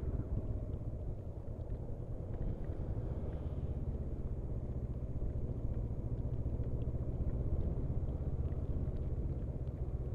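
Muffled, steady low rumble of a motorcycle on the move, its engine and wind noise blended together.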